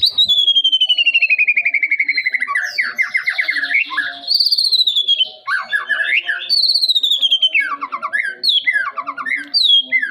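A young white-rumped shama singing: a long rapid trill that falls in pitch, then clear whistled phrases sliding up and down, breaking into short slurred notes repeated several times toward the end.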